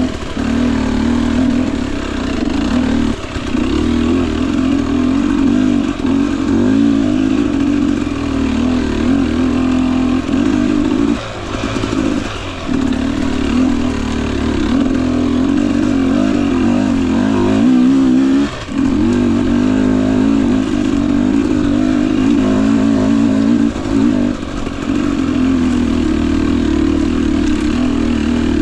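Single-cylinder two-stroke engine of a Husqvarna TE250i dirt bike being ridden at low throttle. The revs waver up and down, with brief drops as the throttle is chopped every few seconds.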